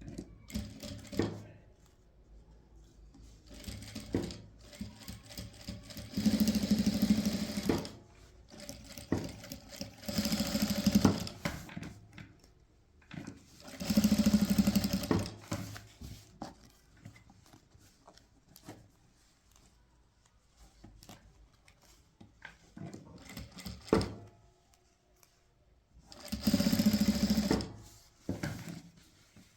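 Sewing machine running in four short stitching runs of a second or two each, with small clicks and knocks in the pauses between them.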